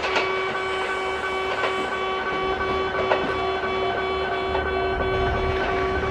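Kintetsu electric train running on the line, with a steady motor whine over a low rumble and occasional wheel clicks over rail joints.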